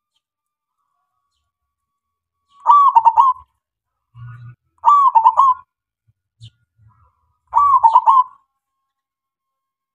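Male zebra dove (perkutut) singing: three short cooing phrases, each a quick run of bubbling notes lasting under a second, repeated about every two and a half seconds after a pause at the start.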